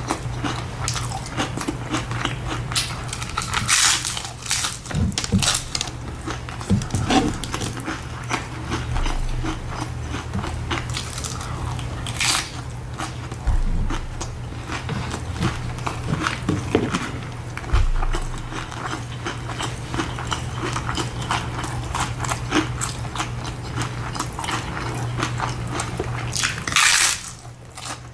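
Close-miked chewing and biting of crunchy hard-shell tacos, with irregular crackling crunches and a few louder bites.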